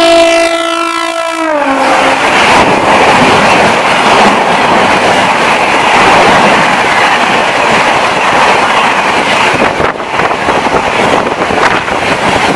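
Electric locomotive's horn blaring a long steady note whose pitch drops as the locomotive passes close by. It is followed by the loud rush and rapid wheel clatter of Shatabdi Express coaches passing at high speed.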